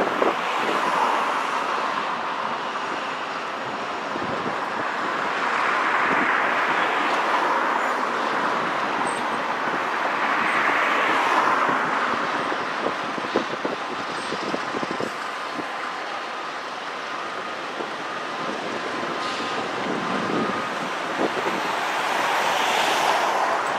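Freight cars rolling past: a steady rush of steel wheels on rail that swells and eases every few seconds, with faint thin squeals and a few light knocks, and wind on the microphone.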